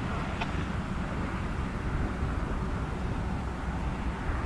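Steady low rumble of a freight train running past, with one short high chirp about half a second in.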